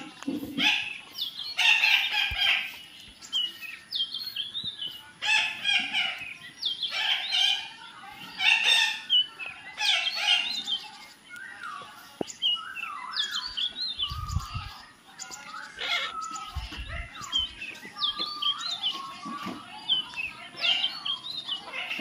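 Parakeets and other birds chirping and calling: many quick, overlapping chirps and short squawks, with two brief low rumbles about halfway through.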